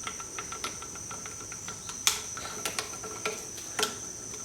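Sharp metallic clicks and taps of a screwdriver or pick working a retaining ring out of a Rolls-Royce Phantom III wheel hub, the loudest about two seconds in and again near the end. A steady high-pitched tone runs underneath.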